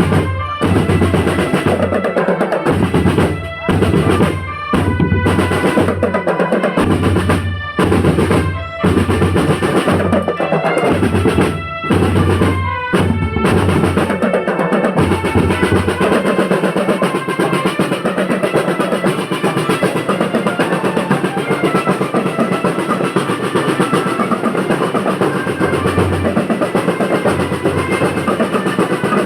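School marching drum band playing: bass drums and snare drums beating, with a melody line over the top. About fifteen seconds in the bass drum drops out and the snares carry on in a steady roll.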